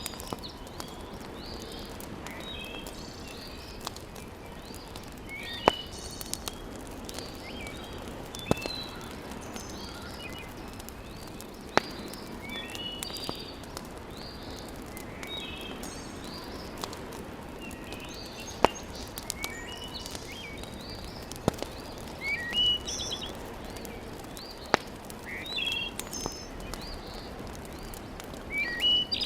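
Wood fire burning in a fireplace over a steady hiss, with a sharp crackling pop every few seconds. Birds chirp outside throughout.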